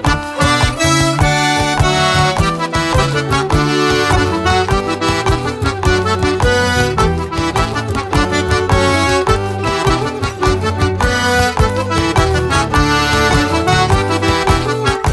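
Traditional Québécois and Métis fiddle music played by accordion, fiddle and guitar, the accordion carrying the tune over a fast, even beat.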